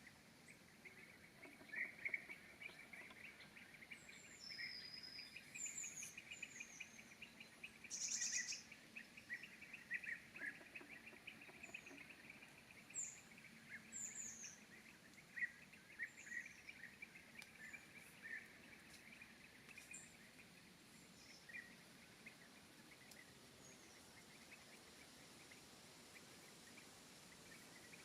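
Faint calls of several small woodland birds: short, high, thin notes that fall in pitch, scattered over a busier chatter lower down. The calls thin out over the last several seconds.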